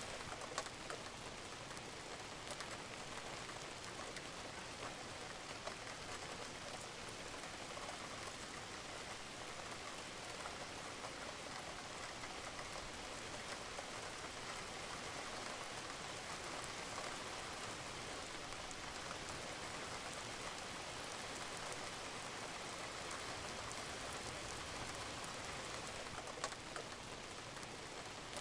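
Steady rain falling on a roof, with scattered louder drops striking close by.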